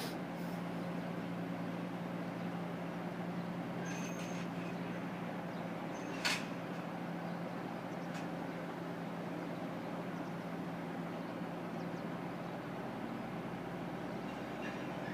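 Mitsubishi truck engine running steadily with an even hum, and a single sharp click about six seconds in.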